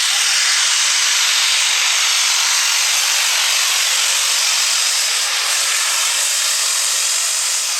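Super stock diesel 4x4 pulling truck at full throttle making a pass down the pulling track, heard as a loud, steady rushing hiss.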